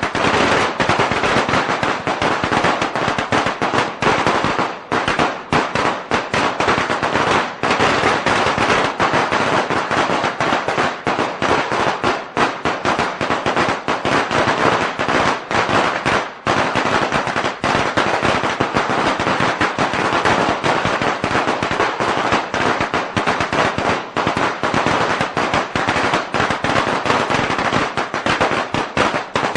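A long string of Chinese firecrackers going off, a dense, unbroken rattle of sharp bangs that keeps going at a steady loud level.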